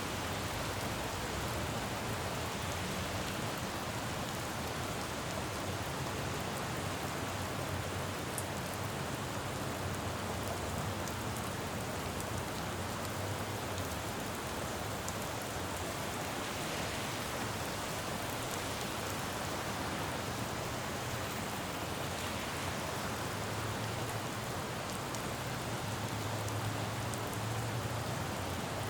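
Steady rain falling on a city road, pattering with fine drop ticks, over a low traffic rumble that swells and fades, loudest near the end.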